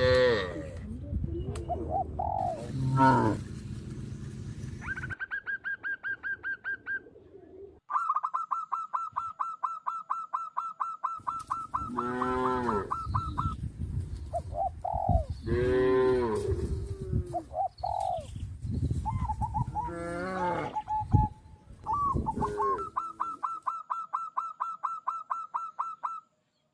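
Bird calls in quick succession: long runs of a rapid, evenly repeated pulsed call, broken by several louder, drawn-out calls with arching pitch.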